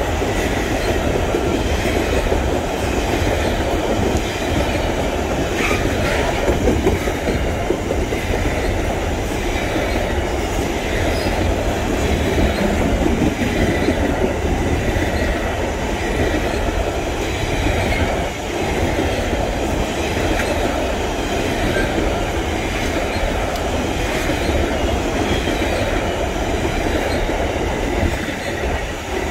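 Wagons of a loaded pulp freight train rolling past close by: a steady, loud rumble of steel wheels and bogies on the rails, with a faint high wheel squeal at times.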